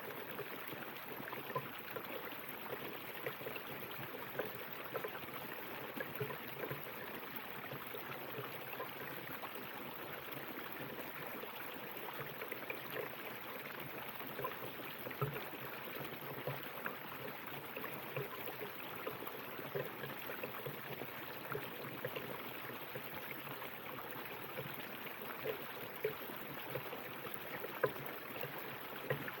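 A river or stream running over rocks: steady rushing water with many small splashes and gurgles.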